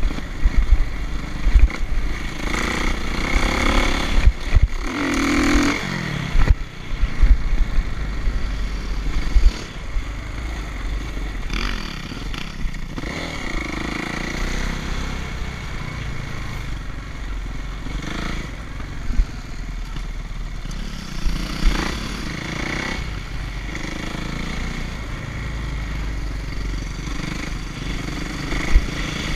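Dirt bike engine running and revving, its pitch rising and falling several times as the throttle is opened and eased off, with scattered clattering knocks.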